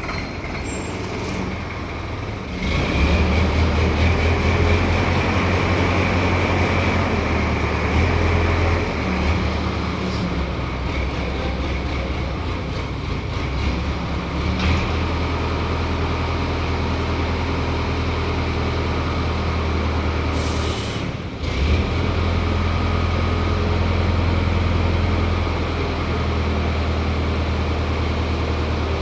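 Heavy diesel engine of a mobile crane running steadily under load, with a deep hum. It revs up about three seconds in and dips briefly for a moment near the two-thirds mark.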